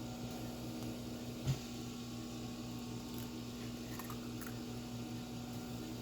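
Steady low hum, with one sharp knock about a second and a half in and a few faint clinks around the four-second mark, as of a utensil or bowl being handled on a counter.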